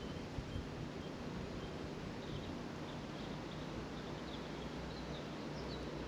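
Faint songbird chirping, a string of short high notes that grows busier partway through, over a steady outdoor hiss.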